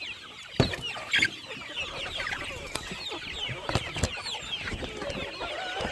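A flock of chickens clucking and chirping, many calls overlapping, with a couple of dull thumps among them.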